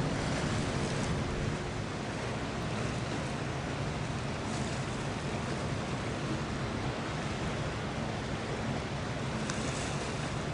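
Steady rushing noise of wind and open water, with a low engine drone underneath that eases off about a second and a half in.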